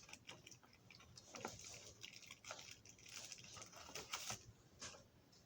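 Faint, scattered light clicks and taps of small objects being handled at a workbench, close to near silence.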